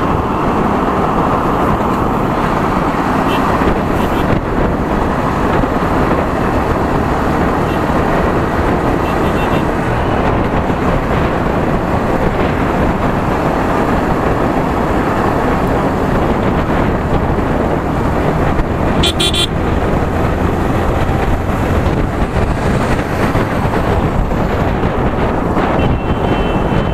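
Steady wind and road noise of a Yamaha R15 V3 motorcycle ride. A vehicle horn honks briefly about nineteen seconds in, with fainter short beeps a few times elsewhere.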